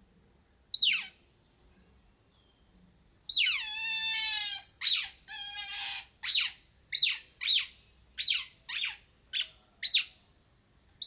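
A small animal's high-pitched calls: one short squeak about a second in, a longer wavering cry a little after three seconds, then a run of short falling squeaks, just under two a second.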